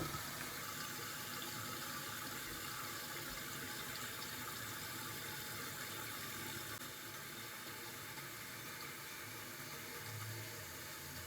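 Water running steadily with a filling sound, dropping a little about seven seconds in.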